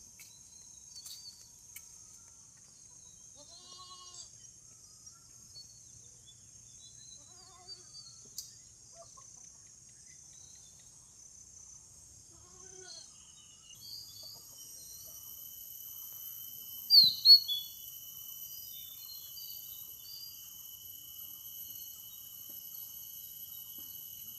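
Outdoor nature ambience: insects buzzing steadily at a high pitch, growing fuller a little past halfway. Faint animal bleats come three times in the first half, and sharp bird chirps are loudest about two-thirds of the way through.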